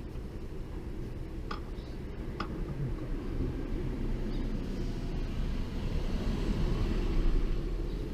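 A vehicle engine running, building gradually in level to its loudest about seven seconds in and then easing off, with a couple of light clicks early on.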